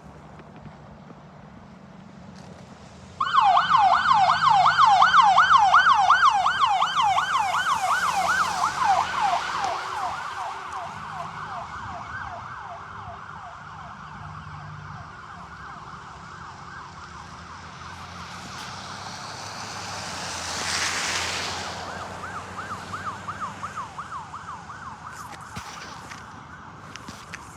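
Fire rescue truck's electronic siren in a fast yelp, about four sweeps a second, switching on abruptly about three seconds in. It is loudest for the first few seconds, then fades but keeps going. A brief whoosh comes near the end.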